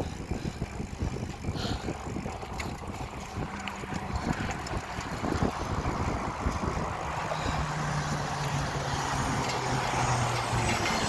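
Rush-hour road traffic heard from a moving bicycle, with wind buffeting the microphone. A vehicle engine hum comes up in the second half, and the traffic noise grows louder toward the end.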